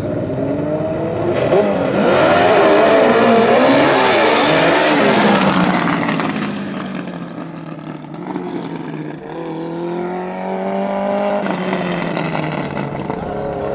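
Racing lawn mower engine running hard on a drag run, loudest for the first few seconds with its pitch wavering, then settling to a lower, steadier note that slowly falls. Another engine note rises and then fades near the end.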